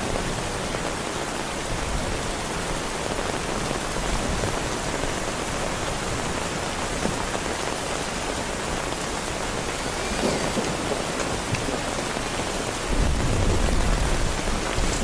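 Heavy rain falling steadily, with a low rumble of thunder rising near the end.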